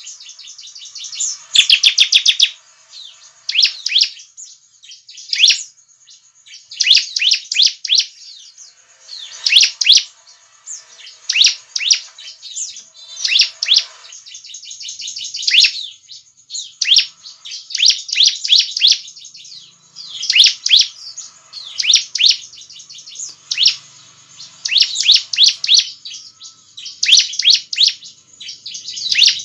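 Bar-winged prinia (ciblek) singing vigorously: loud bursts of rapid, high, sharp chirping notes, each phrase under a second, repeated every one to two seconds.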